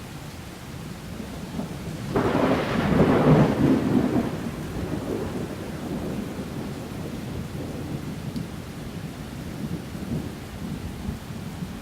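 A thunderclap breaks about two seconds in and rumbles away over the next few seconds, over steady rain.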